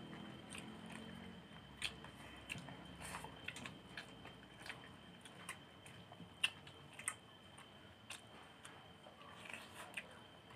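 Close-up eating sounds of people chewing rice and fish eaten by hand: soft chewing with scattered, irregular sharp mouth clicks and smacks, over a faint steady high tone.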